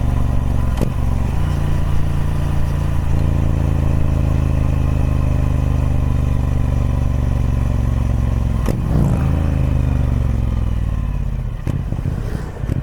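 Triumph Speed Twin 1200's 1200cc parallel-twin engine running through its stock exhaust, holding a steady note with two brief breaks, about a second in and again near nine seconds. After the second break the engine note falls away and gets quieter.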